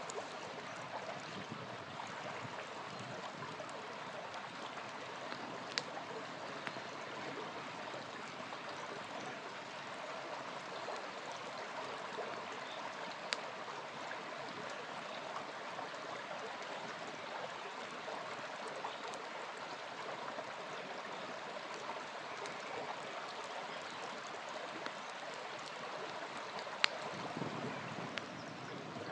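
A small river flowing with a steady rush of water, with a wood campfire giving a few sharp pops, three of them standing out, about 6, 13 and 27 seconds in.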